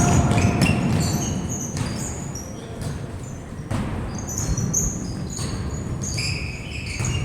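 Sounds of play on an indoor court: sneakers squeaking repeatedly on the floor, with a couple of sharp thuds of a ball and a low hum of crowd noise in an echoing gym.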